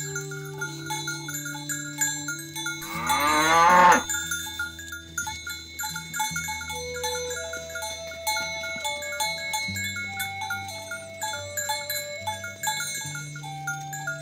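One loud cow moo about three seconds in, lasting about a second, over background music with chime-like notes.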